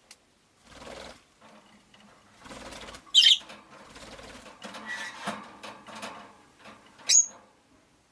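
Rosy-faced lovebirds moving about the cage with rustling and wing flapping, and two short, loud, shrill chirps, one about three seconds in and one near the end.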